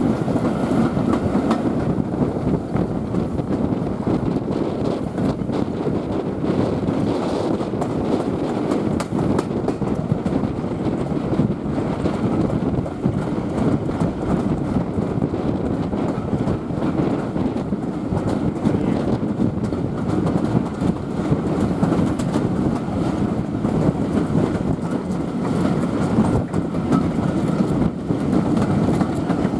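Passenger train hauled by Southern Railway steam locomotive no. 34070 Manston running along the track: a steady, even rumble of wheels on rails with faint clicks.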